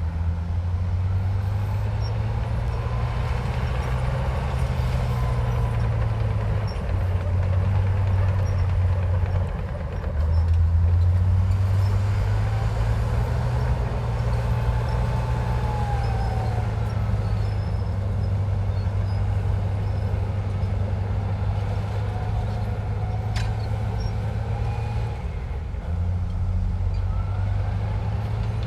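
Heavy diesel earth-moving machinery running steadily under load, its engine note shifting a few times. Faint squeals rise and fall over it, and there is one sharp click about two-thirds of the way through.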